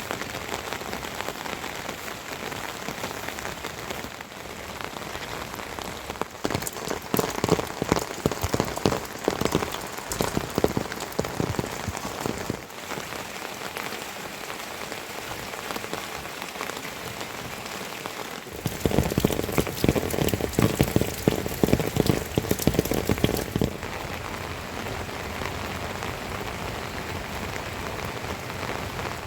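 Steady rain falling, with two spells of louder, denser drop strikes lasting a few seconds each, about a quarter of the way in and again past the middle.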